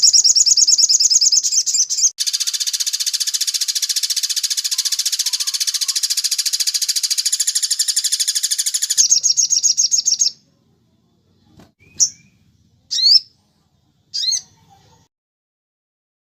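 A sogon (sunbird) singing: fast high trills that run for about ten seconds, then three short separate chirps near the end.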